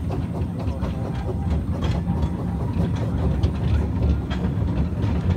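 Small light-railway train running, heard from aboard: a steady low rumble with the wheels clicking irregularly over the rail joints.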